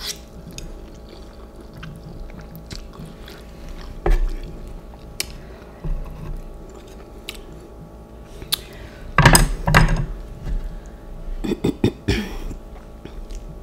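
Mouth noises of someone eating instant noodles: soft chewing with scattered small clicks, and louder bursts of eating sounds about nine seconds in and again near the end.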